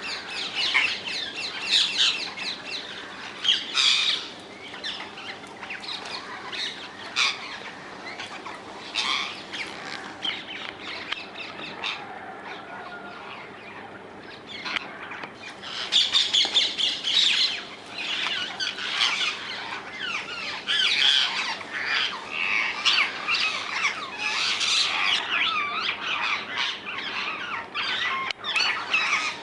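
A flock of rose-ringed parakeets (Indian ringnecks) squawking, with many shrill calls overlapping. The calling thins out for a while in the middle, then grows dense and loud again from about halfway through.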